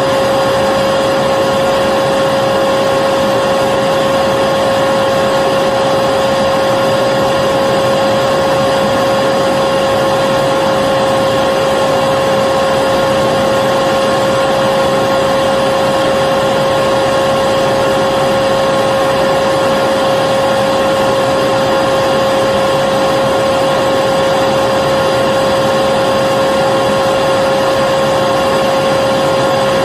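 Vacuum cleaner running steadily and loud: a rush of air with a constant mid-pitched whine that never changes in pitch or level.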